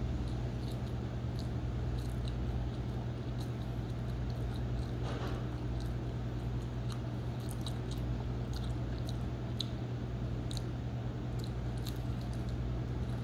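Close-up chewing and biting of pizza, with many small sharp mouth clicks scattered throughout, over a steady low hum.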